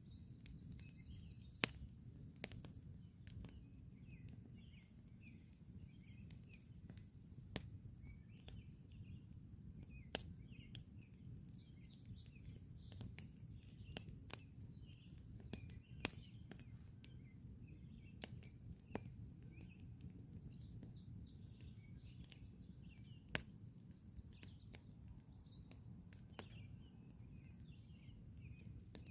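Campfire crackling quietly, with a dozen or so sharp isolated pops spread through it over a low steady rumble. Small birds chirp and twitter in the background throughout.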